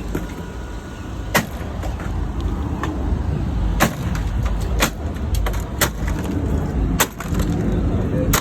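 Sharp metal knocks and clanks about once a second, irregularly spaced, over a steady low rumble of machinery during the scrapping of a semi-truck cab.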